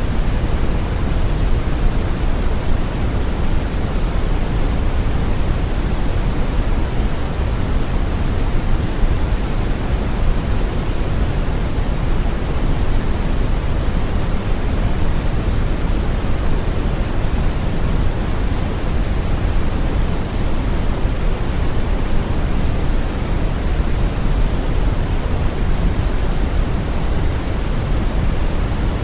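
Steady brown noise: a deep, even rushing hiss weighted to the low end, with no change or events.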